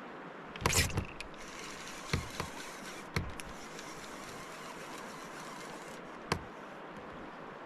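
Steady rush of river water, with a few sharp knocks over it: a cluster about a second in, single ones around two and three seconds in, and one more near the end.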